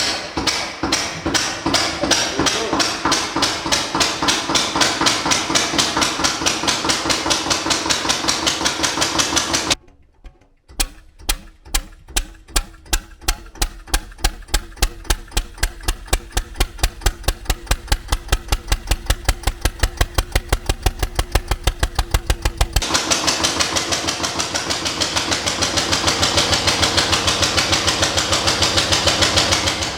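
Single-cylinder Ruston Hornsby stationary engine running with a steady, sharp beat. About ten seconds in, the sound drops out briefly. It then comes back as loud, regular heavy beats that speed up, as the engine picks up speed again. Near the end the sound turns denser and brighter.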